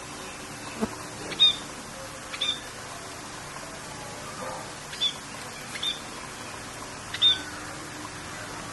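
Several short, sharp bird chirps, about six spread across the few seconds, over a steady hiss of rain.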